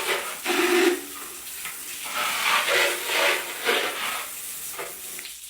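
Handheld shower head spraying water in its jet power-wash mode: a hissing rush of spray that swells and fades as the stream moves.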